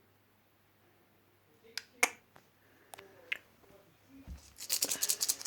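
A series of sharp clicks and taps, single ones spaced well apart at first, then a quick rattling run of many clicks near the end, with a dull low thump just before that run.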